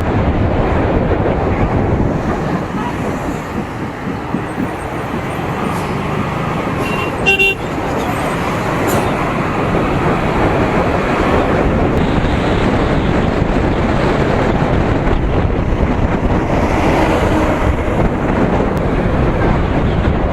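Steady rush of wind and road noise on the microphone of a moving motorcycle, with a brief vehicle horn toot about seven seconds in.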